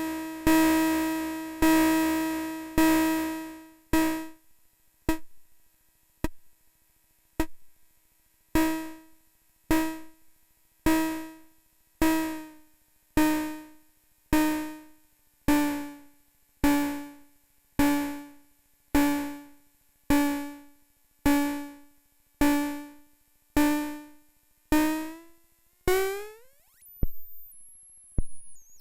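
ADDAC105 4 Voice Cluster eurorack module, one triggered voice pinging about once a second with a pitched, decaying tone. The decay is turned down to short clicks for a few seconds and then back up to ringing notes. Near the end the pitch sweeps up steeply into high whistling tones as the frequency is dialed.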